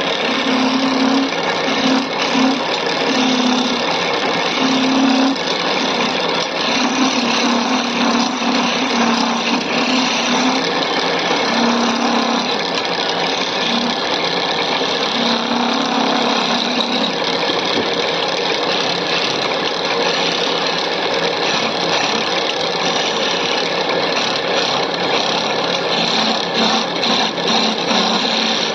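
Wood lathe running steadily while a turning tool cuts the spinning wood. A low hum breaks in and out through the first half.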